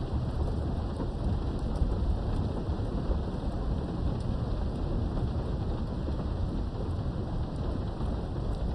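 Steady rain heard through a window, with a continuous low rumble of thunder under it and a few faint drop ticks.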